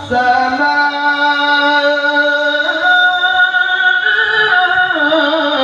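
A male qari reciting the Qur'an in melodic tajwid style, holding one long ornamented note after a quick breath at the start. The pitch steps up twice in the middle and falls back near the end.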